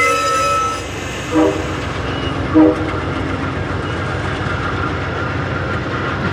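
Locomotive horn: a held chord that cuts off about a second in, followed by two short blasts, then the steady rumble of the train rolling past.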